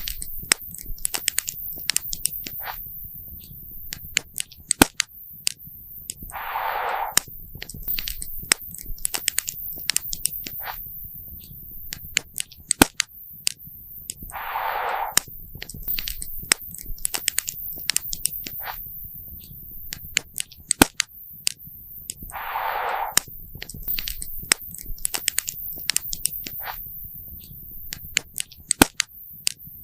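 Campfire crackling and popping, with sharp irregular pops that come several a second at times. A short hiss recurs about every eight seconds.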